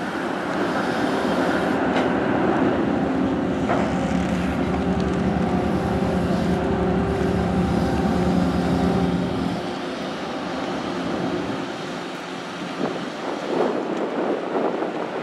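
Steady low drone of a ferry's engines and machinery, with a few even hum tones, that falls away about nine and a half seconds in; gusts of wind buffet the microphone near the end.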